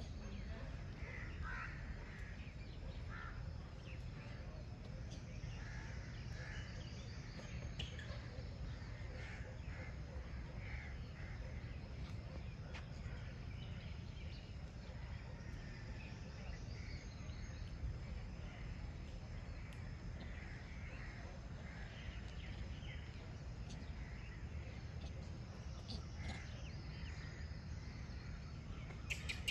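Scattered short bird calls over a steady low background rumble.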